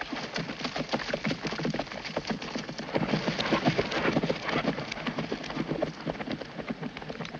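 Clatter of several horses' hooves on hard ground. It grows louder about three seconds in, then eases off.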